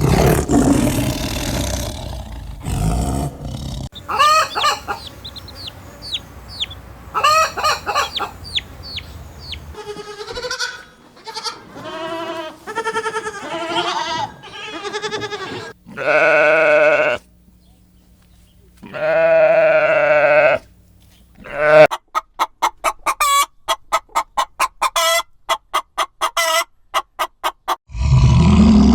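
A string of separate farm-animal calls, mostly chickens: clucking and crowing, with pitched bleating calls between. Near the end comes a fast run of short repeated calls.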